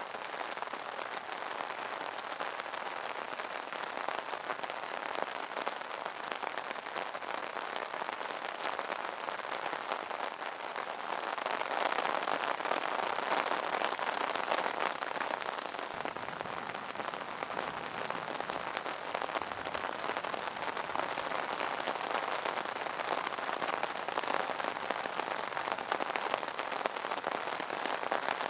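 Steady rain pattering on an umbrella canopy, a dense patter of drops that swells a little after about ten seconds.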